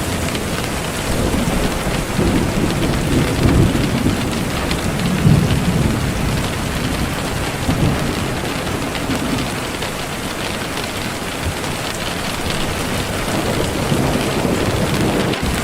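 Steady heavy rain with low rolling thunder rumbles swelling and fading beneath it, strongest about a third of the way in.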